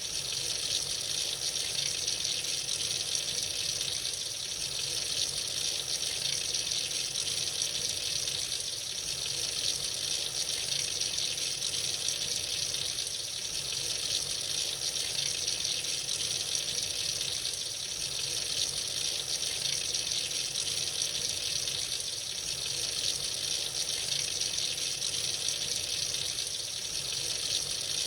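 Tap running freely into a sink, a steady, unbroken rush of water.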